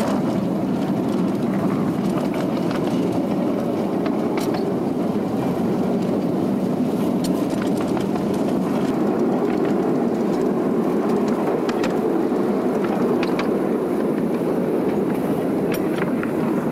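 A home-built 1/3-scale Shay locomotive train running on 12-inch-gauge track, heard from on board: a steady rumble of steel wheels on rail and running gear, with scattered clicks.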